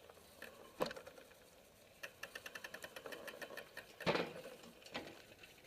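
Rear freehub of a road bike ticking rapidly as the wheel turns without pedalling, with a soft knock before it and a louder knock after it.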